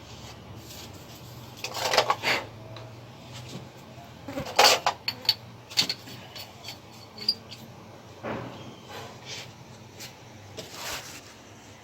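Knocks and clatter of hard objects being handled, in clusters about two seconds in, the loudest around five seconds in, and again near the end, over a faint steady hum.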